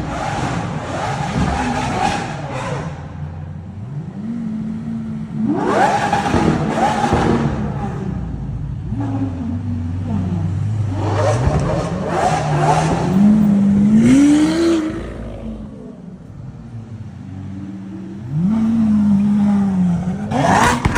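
Lamborghini Aventador SVJ Roadster's 6.5-litre V12 revving and accelerating, its pitch climbing and dropping several times. The loudest run comes just past the middle, then it eases off briefly before revving up again near the end.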